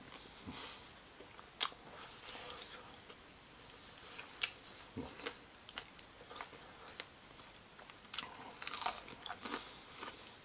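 A person chewing crispy fried chicken with a seasoned coating, with irregular sharp crunches, loudest and most frequent about eight to nine seconds in.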